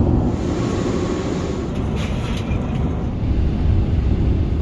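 Steady low rumble of cabin noise aboard an Emirates Airbus A380.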